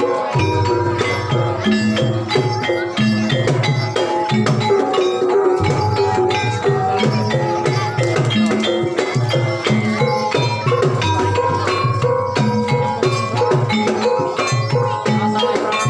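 Banyumasan ebeg dance music: fast, steady hand-drumming in an even rhythm over repeating struck melodic tones that ring on.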